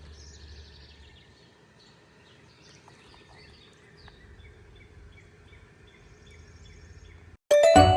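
Faint outdoor ambience with small birds chirping, over a low rumble that drops away and comes back. Loud, tinkling music starts suddenly near the end.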